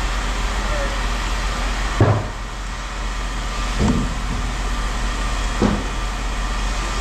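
Three dull clanks of scrap metal pieces thrown into a bin, about two seconds apart, the first the loudest, over a steady background hum.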